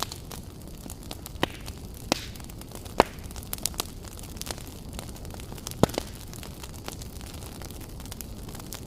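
Wood campfire burning: a steady low rumble of flames with irregular sharp crackles and pops, the loudest about three seconds in and again just before six seconds.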